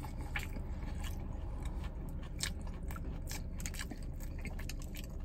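A person chewing a mouthful of crispy chicken sandwich close to the microphone, with scattered soft crunchy clicks over a faint steady low hum.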